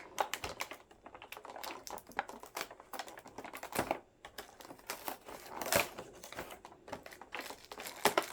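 Irregular light clicks, taps and rustling as a small advent-calendar compartment is opened by hand and the little plastic pieces inside are handled.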